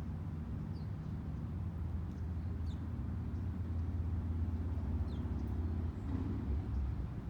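A steady low mechanical rumble, like a vehicle engine or traffic, with three faint, short, high bird chirps that fall in pitch scattered through it.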